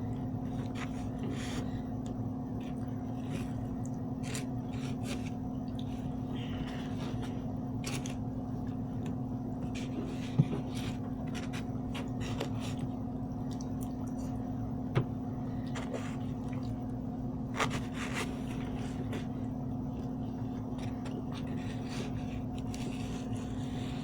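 Eating at a table: cutlery scraping and clicking against a plate, with three sharper clinks about ten, fifteen and seventeen seconds in, over a steady low hum.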